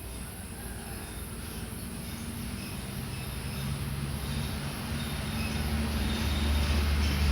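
A vehicle engine running with a low steady drone that grows steadily louder, as if approaching, with faint bird chirps above it.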